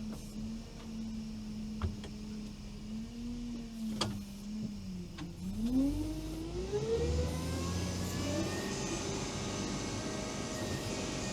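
Veter all-terrain vehicle's engine idling steadily, with a few sharp clicks, then revving up about halfway through and holding at higher revs as the machine pulls away for another try at a steep slope.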